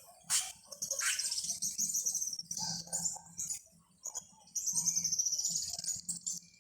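Songbirds singing: several high-pitched rapid trills and short chirps, in phrases a second or two long with brief pauses between them.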